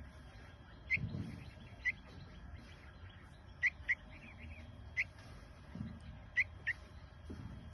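Baby bird cheeping: about seven short, sharp high chirps roughly a second apart, two of them coming in quick pairs, over a few dull low thumps.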